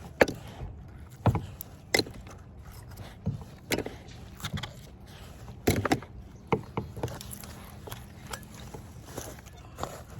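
Irregular knocks and clunks, a dozen or so spread unevenly, as a fishing magnet and the scrap metal stuck to it are handled and bumped against a kayak.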